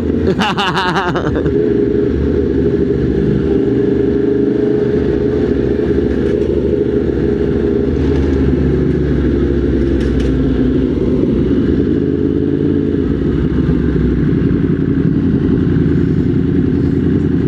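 Motorcycle engine running steadily while riding, with a brief rising pitch in the first second.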